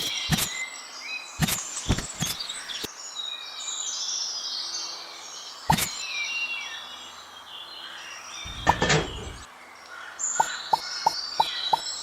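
Birds chirping, with sharp clicks here and there and a short muffled thud about three quarters of the way through. Near the end, a run of evenly spaced clicks comes about three a second.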